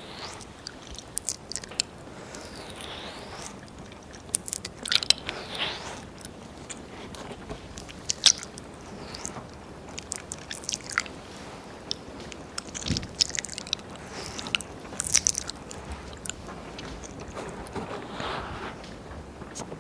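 Wet mouth sounds and ear licking into a binaural ear-shaped microphone: irregular tongue clicks, smacks and slurps, with a few sharper pops among them.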